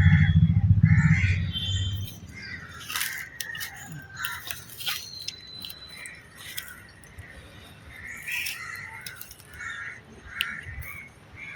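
Birds calling repeatedly in short calls, over a low rumble that is loudest in the first two seconds.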